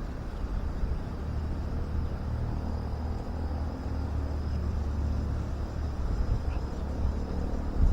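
Steady low outdoor rumble, with a single thump near the end.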